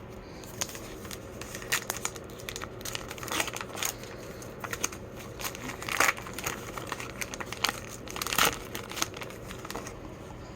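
A baseball card pack's wrapper being torn open and crinkled in the hands, with irregular crackles throughout, loudest about six and eight and a half seconds in.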